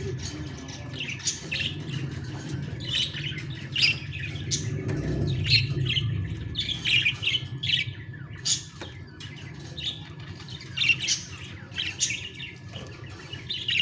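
Baby budgies (budgerigar chicks) giving many short, rapid, squawky calls over and over. A steady low hum runs underneath.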